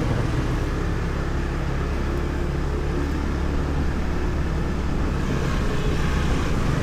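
Motorbike riding off with a passenger aboard: its engine running with a steady low rumble of road and wind noise.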